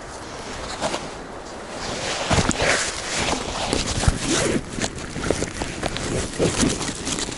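Crackling and scraping of forest ground being disturbed: a busy run of short rustles, scrapes and knocks that starts about two seconds in.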